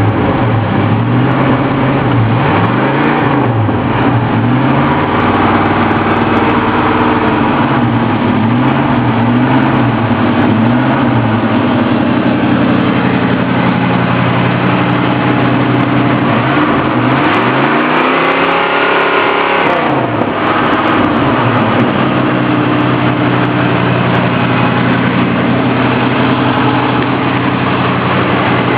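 1979 Ford F-150 pickup's engine idling with quick throttle blips in the first part. About two-thirds of the way in it gets one long, higher rev, then settles back to a steady idle.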